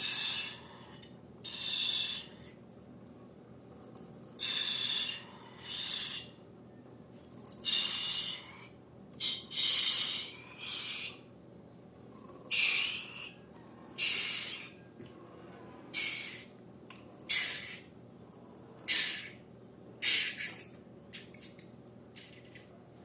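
Slime being squeezed and squished, in a run of about fifteen short wet hissing squelches with short pauses between them.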